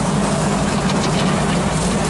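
383 stroker small-block Chevy V8 in a 1937 Chevy truck, idling steadily.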